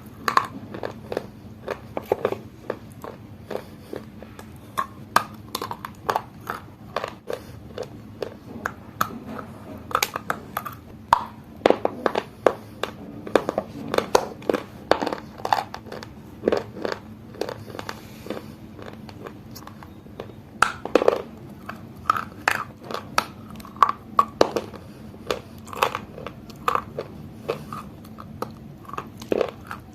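Close-up, dry crunching as a person bites and chews something hard and brittle, with sharp, irregular crunches several times a second.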